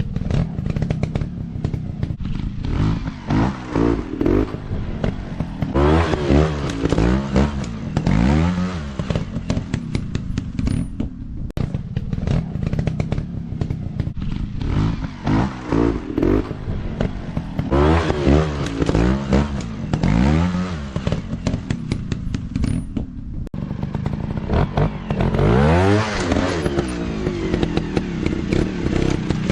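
Off-road dirt bike engines running and revving up and down again and again, the pitch climbing and falling several times as the throttle is worked.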